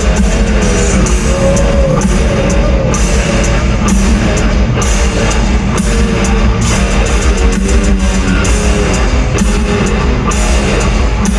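Heavy metal band playing live: loud distorted electric guitars and a drum kit with steady cymbal hits, and a bending melodic line over the top.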